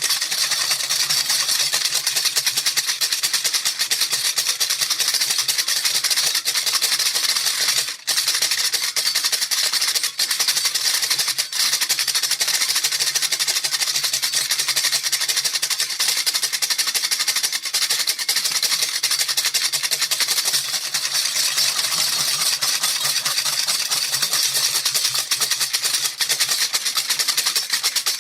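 Baby rattle shaken quickly and without stopping: a dense, steady rattling, with a brief break about eight seconds in.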